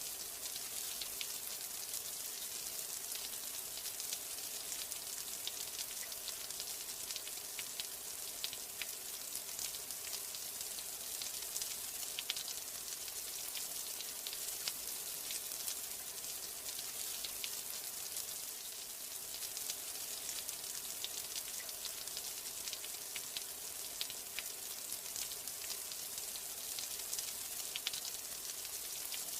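Steady rain falling, a continuous high hiss with many sharp individual drops ticking throughout.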